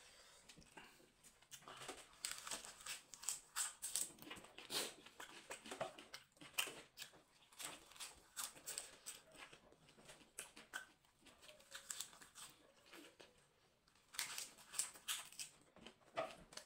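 Close-miked eating sounds: a person chewing and smacking, with many short crisp crackles and clicks as a fresh green leaf is bitten and chewed.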